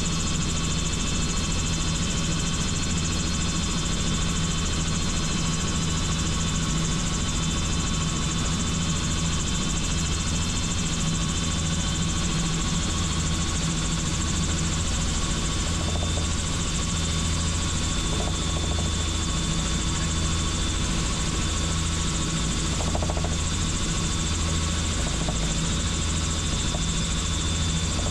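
Helicopter in flight: a steady, loud drone of rotor and engine with a low hum and higher steady whining tones above it.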